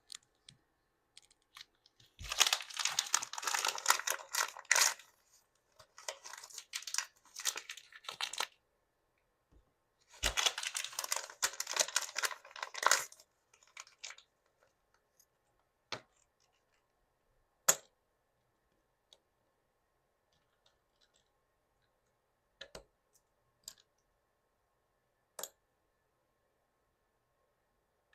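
Thin plastic packaging of Mini Brands miniatures being crinkled and torn open in a few bursts, followed by a handful of separate sharp clicks.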